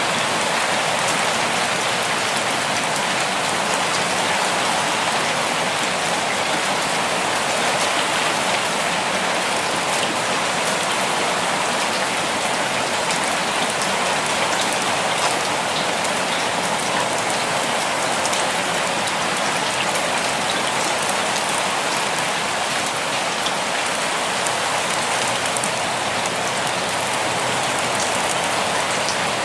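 Steady rainfall, a continuous even hiss of rain with individual drops pattering on a surface.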